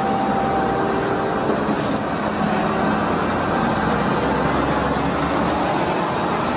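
Concrete mixer truck's engine running steadily, starting and stopping abruptly as a spliced-in clip.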